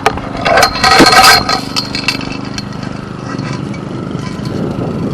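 An old lawn tractor's small engine idling steadily. A loud rattling clatter, typical of a gate being swung open, comes from about half a second to a second and a half in.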